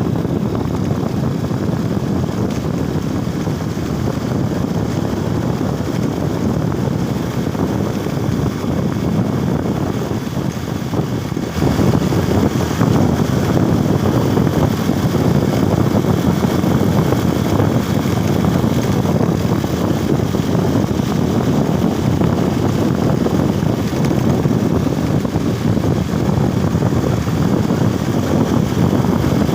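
Motorcycle running at road speed with wind rushing over the microphone, a steady loud rumble that gets louder about a third of the way in.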